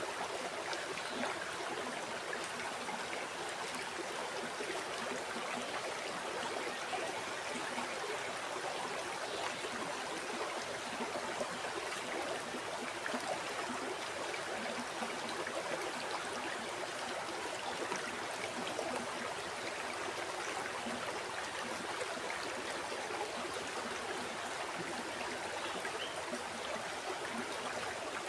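A river or stream flowing steadily, its water rushing and burbling over rocks as an even, unbroken hiss.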